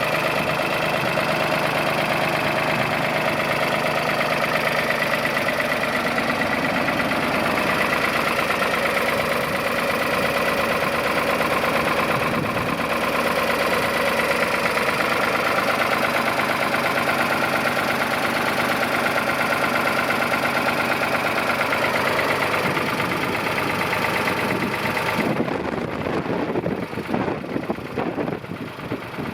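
1973 Ford 2000 tractor's three-cylinder engine idling steadily. About four seconds before the end, the steady running gives way to a rougher, more uneven sound.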